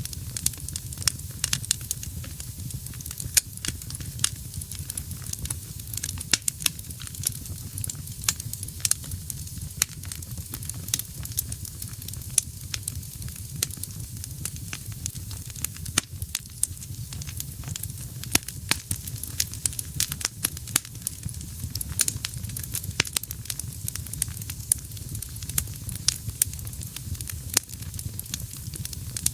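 Wood fire burning in a fireplace, with frequent irregular sharp crackles and pops over a steady low rumble and hiss.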